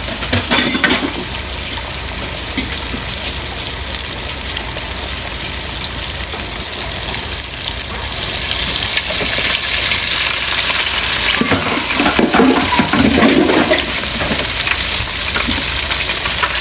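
Floured whole fish deep-frying in hot grease: a steady sizzle that grows louder about halfway through.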